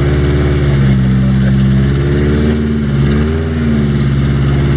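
Off-road rock crawler's engine running steadily under load. Its pitch rises and falls about two to three seconds in as the throttle is worked.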